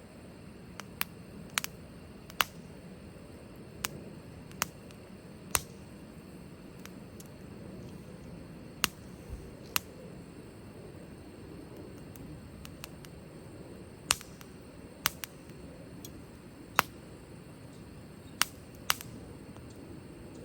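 Wood fire burning with a steady low rush of flame, and sharp crackles and pops from the firewood at irregular intervals, about one a second, some much louder than others.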